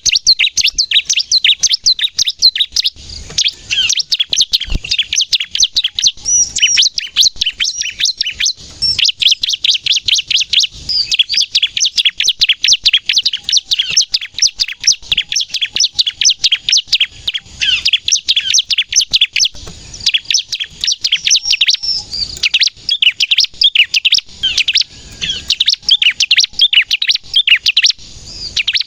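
Bar-winged prinia (ciblek) singing in its energetic 'nembak' style: long, fast runs of high, sharp chirps with short breaks between runs.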